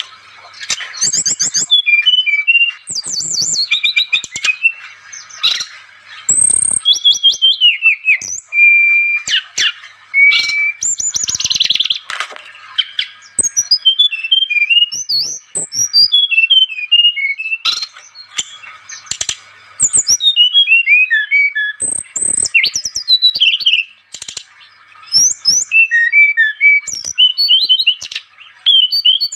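Brown-chested jungle flycatcher (sikatan rimba dada coklat) singing: loud bursts of quick, varied chirps and whistled notes, each phrase a few seconds long, with short pauses between them.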